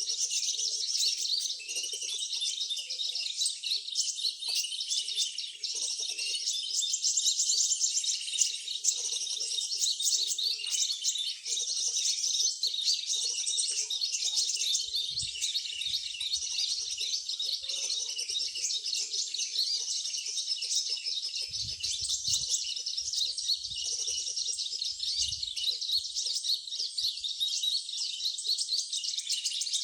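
Small birds chirping and twittering continuously in a dense, high-pitched chorus, with a few soft low thuds in the second half.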